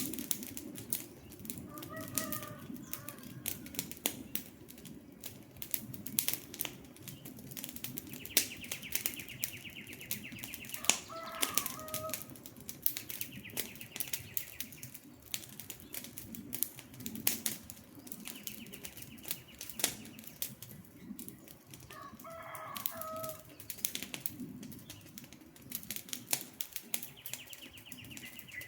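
Wood fire crackling, with dense sharp pops over a low rumble. A bird call breaks in three times, about every ten seconds, and a high buzzy trill recurs in between.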